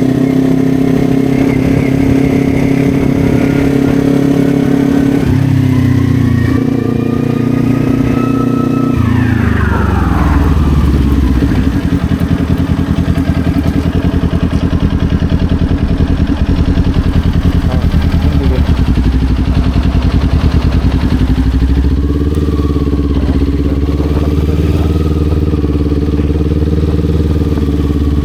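Kawasaki Ninja 400's parallel-twin engine running under way at steady revs. About nine seconds in the engine note falls steeply and settles at a lower steady note, shifting slightly again near the end.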